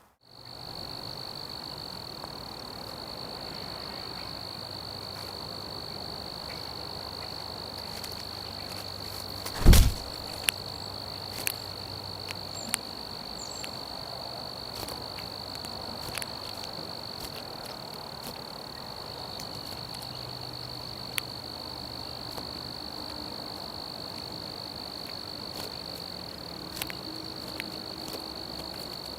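An insect's steady, unbroken high-pitched trill, with one loud thump about ten seconds in and a few sharp clicks afterwards.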